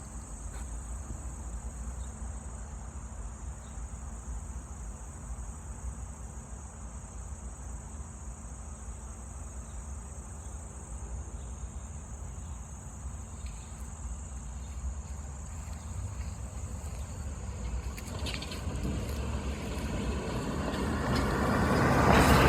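Steady high-pitched insect trill over a low outdoor rumble; near the end a vehicle approaches on the road and passes close by, growing loudest as the stretch ends.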